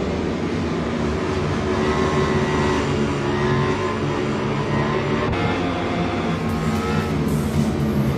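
MotoGP racing motorcycle engines running at high revs, their pitch rising as they accelerate, about two seconds in and again near the end.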